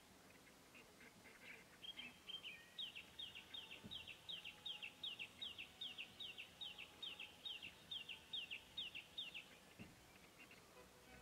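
A bird calling: a few short, flat opening notes, then a long even run of about twenty quick notes, each falling in pitch, about three a second.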